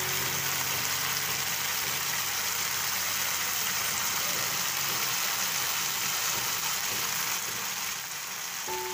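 Chopped onion frying in hot oil in a wok: a steady, dense sizzling hiss.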